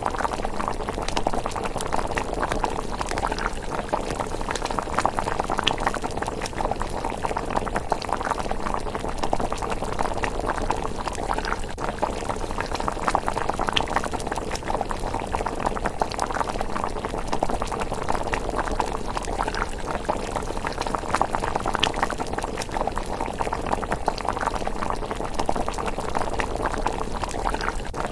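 Thick rice porridge bubbling as it simmers in a pot: a steady, dense bubbling with scattered small pops.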